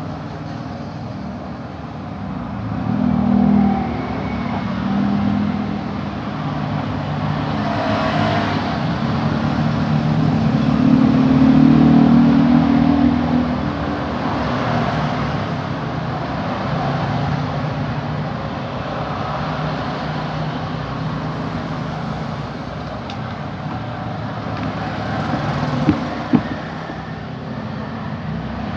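Motor vehicle engines passing and fading, swelling loudest about halfway through, with two short sharp knocks near the end.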